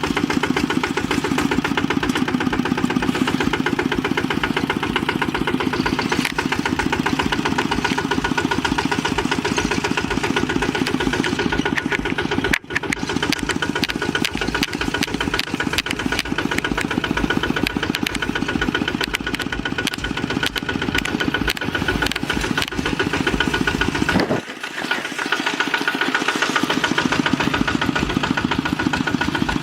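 Horizontal single-cylinder diesel engine of a Kubota RT walking tractor running steadily. It dips briefly twice, once about twelve seconds in and again near twenty-five seconds, when the low end drops away for about a second.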